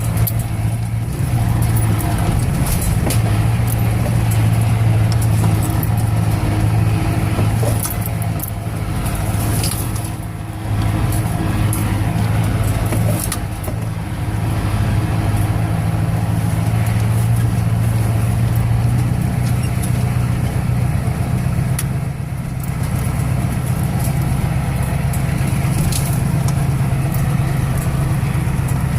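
1985 Ford truck's 6.9-litre diesel V8 running under way, the engine note steady with a few brief dips in level, as when the throttle is eased off.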